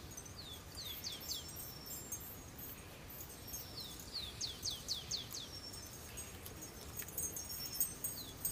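Songbirds singing: series of quick high chirps that each slide downward in pitch, a few about a second in and a longer run of them around the middle, over faint steady background hiss.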